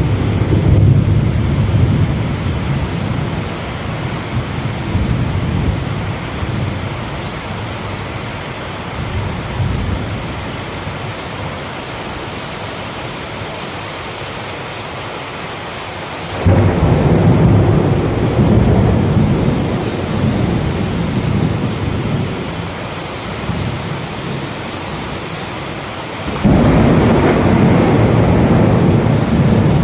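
Heavy rain falling steadily through a thunderstorm. Three rolls of thunder come over it: one at the start, then two that break in suddenly about halfway through and near the end, each rumbling and slowly dying away.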